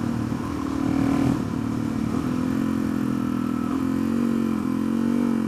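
Suzuki DR-Z400SM's single-cylinder four-stroke engine running at a fairly steady note while riding, the pitch rising a little about four and a half seconds in.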